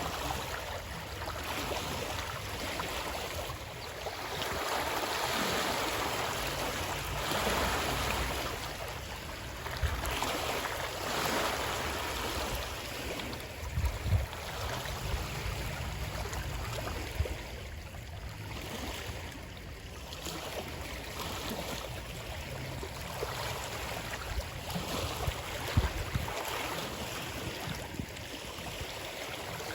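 Running water, a steady rushing that swells and eases every few seconds, with a few short low knocks, the loudest about halfway through and another near the end.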